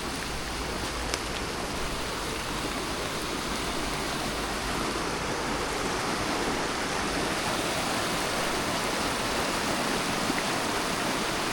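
Steady rush of the rain-swollen Cahaba River mixed with falling rain, slowly getting a little louder.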